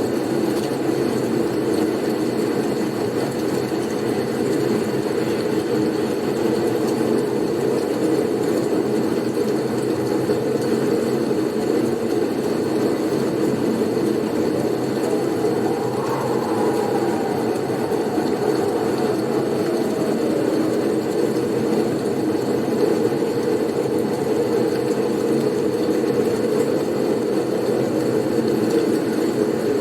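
Blizzard wind: a steady, deep, even rush of wind noise, with a faint whistle that falls in pitch about halfway through.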